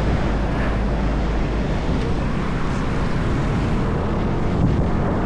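Motorbike running steadily at road speed, its engine drone under a constant rush of wind over the microphone.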